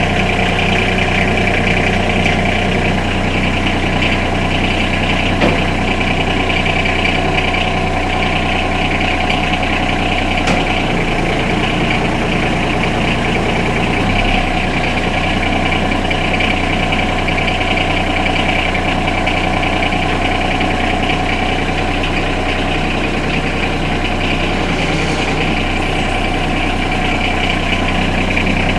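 John Deere 2305's Yanmar three-cylinder diesel idling steadily just after a cold start in sub-freezing weather, with no block heater. Its low hum changes briefly about eleven seconds in for a few seconds, then settles back.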